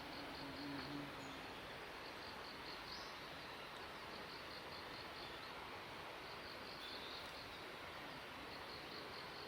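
Faint cricket chirping in repeated short trains of high pulses, about five a second, over a steady background hiss.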